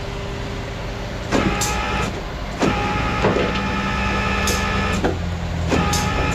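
Rollback tow truck's hydraulics whining under load as the wrecked car is pulled onto the bed, starting about a second in and dropping out briefly near the end. The truck's engine runs steadily underneath, and there are a few metallic clunks.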